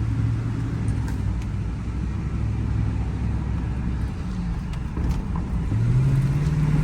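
2004 Ford F-150's 5.4 L V8 engine on a road test, running steadily, then accelerating about six seconds in. The cylinder 8 misfire has been cured by a replacement ignition coil, and the engine runs strong.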